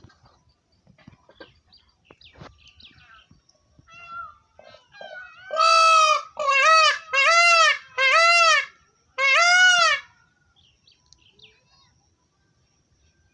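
A pet parrot vocalising: soft chirps and clicks, then five loud drawn-out calls, each rising and falling in pitch, then a few soft chirps again.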